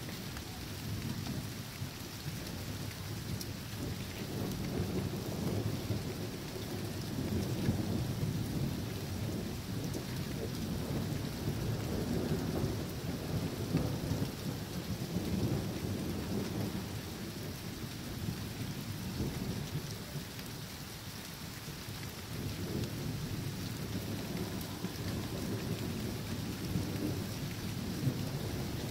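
Thunderstorm: steady rain hissing, with low rolling thunder that swells and fades in long waves.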